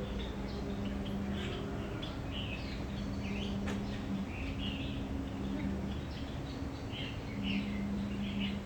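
Many small birds chirping in short, quick calls, one after another, over a steady low hum. A single sharp click sounds a little before the middle.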